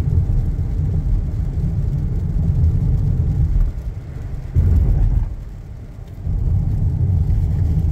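Steady low road and engine rumble heard inside a moving car, dropping away briefly twice near the middle.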